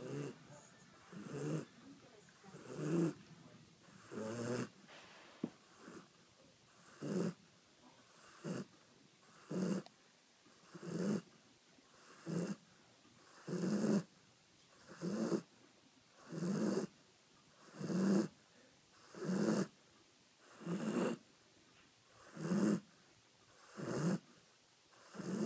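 Dog snoring loudly, one snore on each breath about every one and a half seconds, in a steady rhythm.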